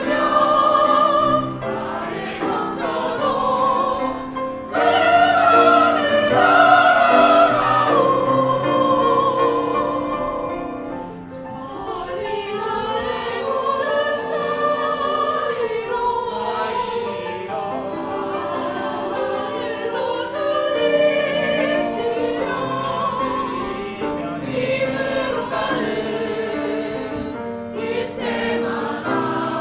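Youth choir singing a song in concert, sustained sung notes moving from phrase to phrase, with a brief easing about eleven seconds in.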